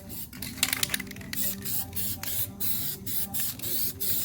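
Aerosol spray-paint can spraying pink paint in short repeated bursts, about three a second, as a stripe is painted onto a truck.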